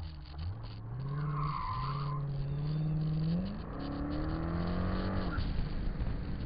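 Corvette engine under hard acceleration, rising in pitch, with a short tire squeal between one and two seconds in. The pitch drops and climbs again at about three and a half seconds as it shifts, then the engine lets off sharply a little after five seconds.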